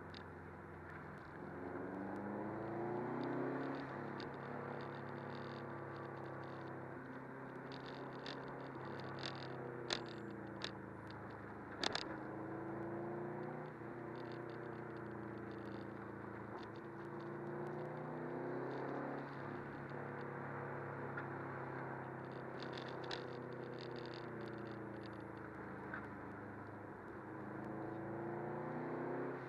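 Subaru WRX's turbocharged flat-four engine heard from inside the cabin while driving, its pitch rising and falling several times as the car speeds up and slows, over steady tyre and road noise. A couple of sharp knocks come around the middle.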